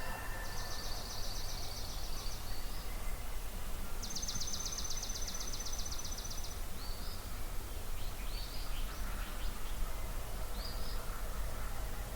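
Songbirds at dawn: two high, dry trills of rapid repeated notes, each lasting two to three seconds, then a few short scattered chirps, over a steady low background rumble.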